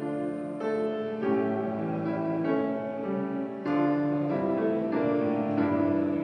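Piano playing slow, held chords, the notes changing about every second.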